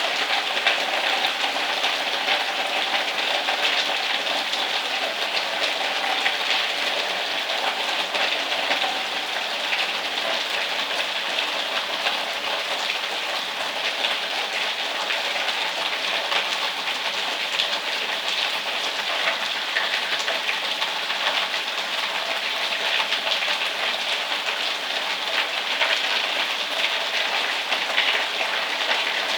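Steady heavy rain falling, a dense even hiss of many close-packed drops.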